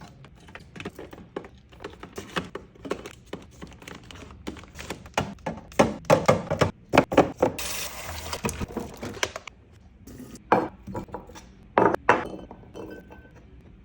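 Glass jars, bottles and containers being set down and arranged in a refrigerator: a run of clinks and thunks, with about two seconds of steady rushing noise in the middle.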